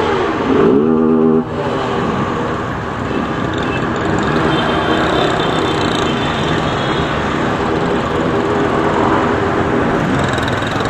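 Motorcycle engines running on the road over a dense, steady rush of noise; an engine's pitch dips and climbs back as it revs in the first second or so.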